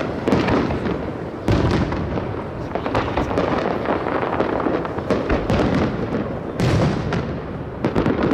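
Fireworks exploding in quick succession over a steady crackle, with heavier bangs about a second and a half in, near six and a half seconds, and near the end, their reports echoing.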